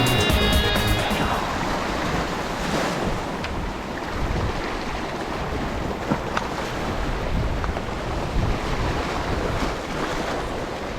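Wind buffeting the microphone over the wash of sea waves, with a few faint clicks. Music fades out about a second in.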